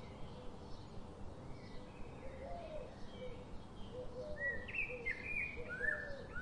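Birds chirping over a steady hiss: short calls repeat throughout, and louder, higher chirps come in from about four seconds in.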